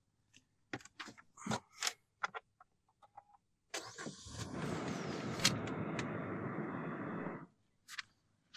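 A few sharp clicks, then the Toyota Rumion's 1.5-litre K15C four-cylinder petrol engine starts suddenly. It runs steadily for almost four seconds and cuts off abruptly.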